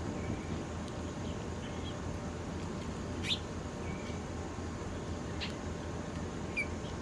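Small birds chirping in short, scattered calls, with a quick louder sweep about halfway through and another near the end, over a steady low rumble.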